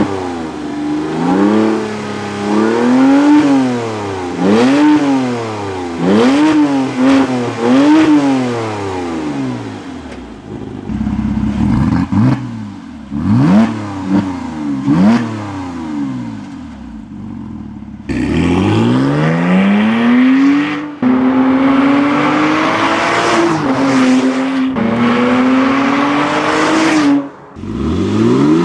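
2006 Porsche Cayman S's 3.4-litre flat-six through a Carnewal GT aftermarket exhaust, revved in a run of quick blips that rise and fall in pitch, then a few sharp short blips. After that comes a long climb in revs held at a higher, slightly stepping pitch.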